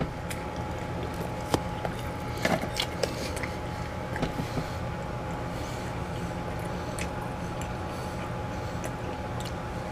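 A person quietly chewing food, with a few soft clicks scattered through, over a steady low hum.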